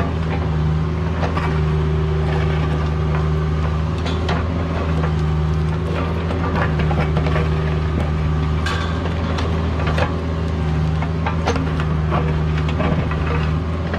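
Caterpillar 304 mini excavator's diesel engine running steadily under work, its note swelling slightly now and then, with scattered sharp clanks and knocks.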